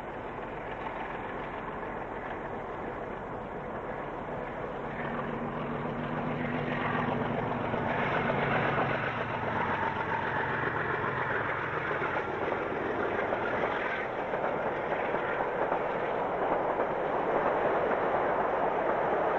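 DX class diesel-electric locomotive hauling a freight train, its engine running under load and the train noise growing louder as it approaches, with a steady engine hum around the middle.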